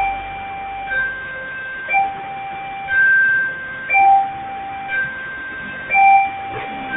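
Railway level crossing warning signal: an electronic two-tone chime that alternates a lower and a higher note, about one note a second, steady and repetitive.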